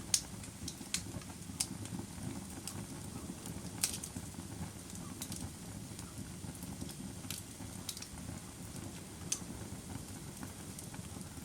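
Campfire burning: a steady low rush of flames with sharp, irregular crackles and pops about once a second, the loudest just after the start and about four seconds in.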